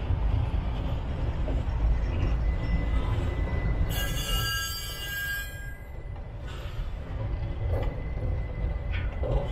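Freight train rolling with a steady low rumble, and a high wheel squeal about four seconds in that lasts a second and a half.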